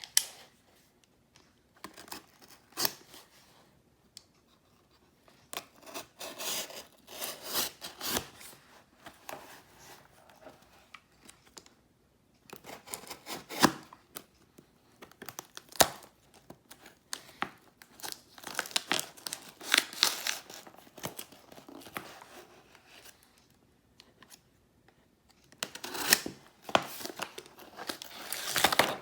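A shipping package being opened by hand: tearing, crinkling and rustling of its packing in irregular bursts, with sharp clicks and pauses between them.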